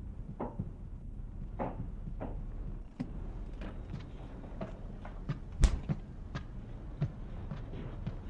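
Soft, irregular knocks and clicks over a low steady background, with one sharper, louder knock about five and a half seconds in.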